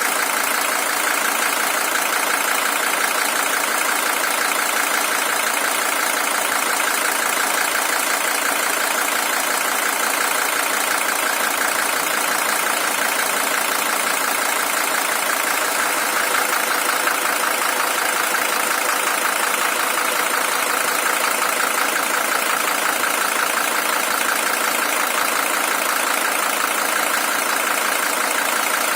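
Mercedes-Benz W123 300TD's OM617 five-cylinder diesel engine idling steadily; the original engine has covered 620,000 km.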